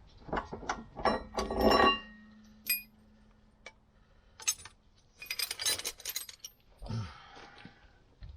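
Metal tools and parts clinking and knocking: a quick run of knocks and clinks in the first two seconds, the loudest of them ringing, then scattered clinks and a short clatter a little past the middle, and a dull knock near the end.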